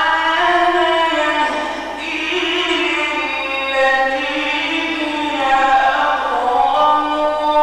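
A Quran reciter's voice chanting in ornamented tajweed style: long, held melodic phrases that glide between notes.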